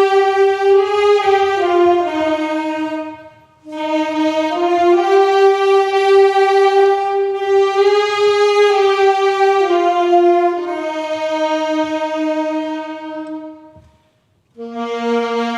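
Slow hymn melody played on a solo wind instrument in long held notes, phrase by phrase, with brief breaks about three and a half seconds in and near the end.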